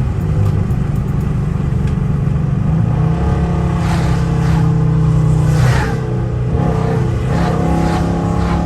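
Dodge Charger R/T's engine and exhaust running steadily under way, heard from inside the car, with a brief dip in the engine note about six seconds in. A rushing hiss rises over it for a couple of seconds in the middle.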